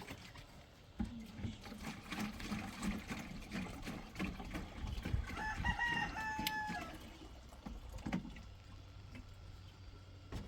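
A rooster crowing once, about a second long, a little past the middle, over scattered knocks and rustling.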